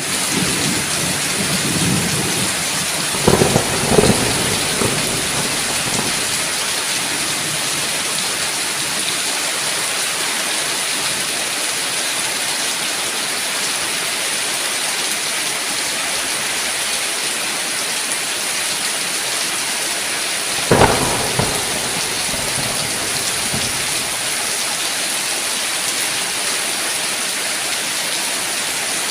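Steady heavy rain, with two short cracks of thunder, one about three seconds in and one about twenty-one seconds in.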